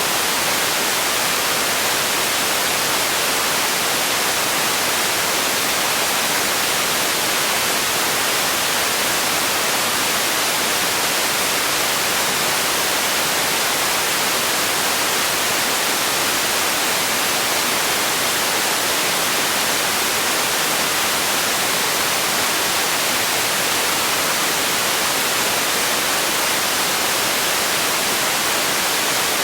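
Steady, unchanging hiss of generated noise, bright and hissy with little low end, like white noise.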